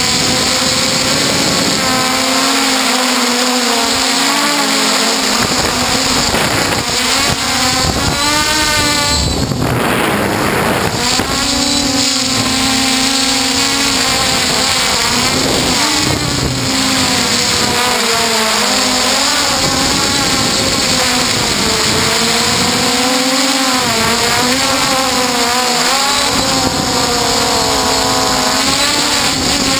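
F450 quadcopter's four electric motors and propellers whining close up from the onboard camera, the pitch rising and falling as the throttle changes. A short rush of noise breaks in about ten seconds in.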